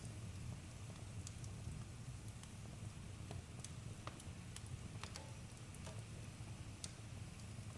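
Campfire burning with a steady low rumble of flame and frequent sharp crackles and pops from the wood.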